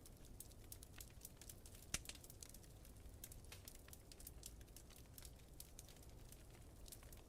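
Wood fire crackling faintly, with many small irregular pops and one sharper pop about two seconds in, over a steady low rumble.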